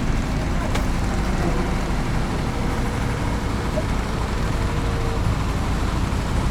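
Small engine running steadily under way, a continuous low rumble with rushing wind noise over it.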